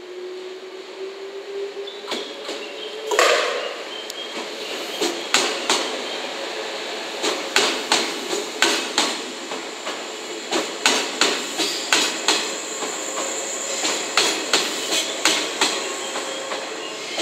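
JR West 381 series limited express electric train rolling slowly past, its wheels clacking sharply over rail joints in quick pairs and groups as each bogie crosses. A faint high whine runs underneath. One louder short sound comes about three seconds in.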